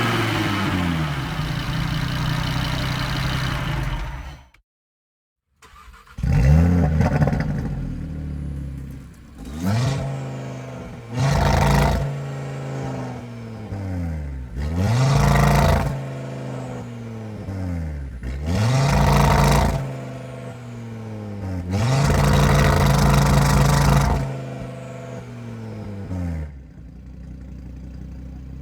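Car engine revving: a rev falls away and stops about four seconds in. After a second of silence a second engine comes in and is revved about six times, each rev rising quickly and then sinking back toward idle.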